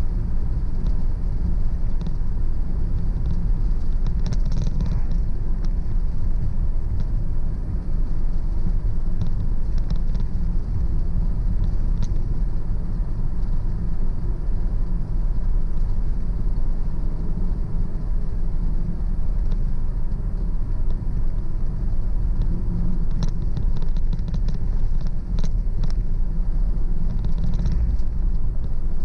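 Steady low rumble of a car driving at road speed, engine and tyre noise with no change in pace, with a few faint scattered ticks.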